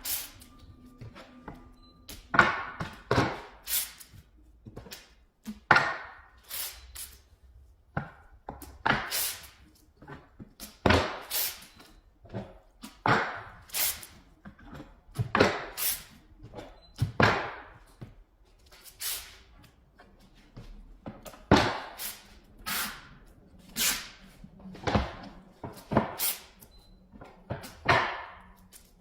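Rhythmic strokes of a hand tool working wood, about one a second, each a short rasping sweep.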